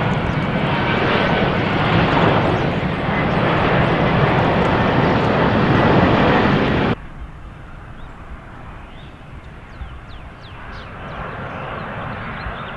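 Airplane engine noise, loud and steady, cutting off abruptly about seven seconds in, followed by much quieter outdoor background noise that swells slightly near the end.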